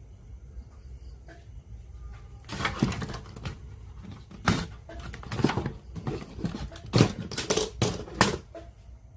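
A quiet hum, then from about two and a half seconds in an irregular run of about a dozen sharp clicks and knocks of small hard objects being handled, ending shortly before the close.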